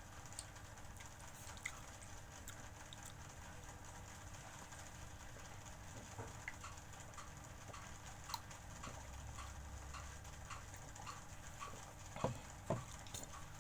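Faint eating sounds: chewing and small mouth clicks come scattered and irregular, with a couple of louder knocks near the end.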